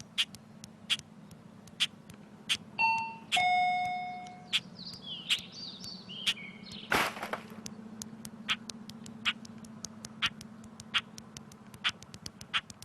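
Shop-door entry chime sounding a two-note ding-dong about three seconds in, with a seagull calling just after and a brief loud crackle a little later. Sharp clicks come about once a second throughout, faster near the end, over a steady low hum.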